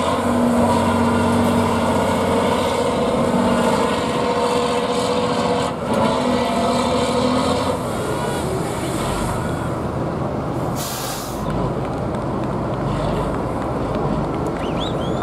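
Truck engine running and revving for several seconds, then a short burst of air-brake hiss about eleven seconds in.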